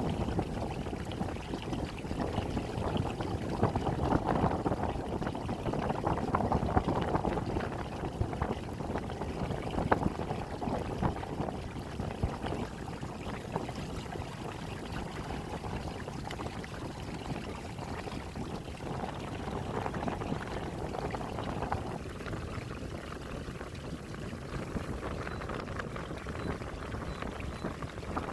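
Water splashing and sloshing against the hull of a kayak under way. The splashing is busier at first and eases off about three quarters of the way through.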